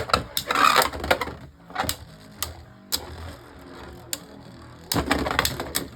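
Beyblade Burst spinning tops battling in a plastic stadium: a rattle of clashes in the first second, single sharp clicks of hits through the middle, and another busy run of clashing about five seconds in.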